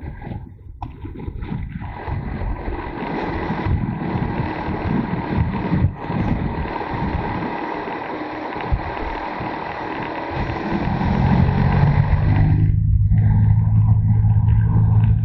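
Motorcycle riding, heard from an onboard camera: wind rushing over the microphone mixed with the engine, then a steady, louder engine note from about ten seconds in.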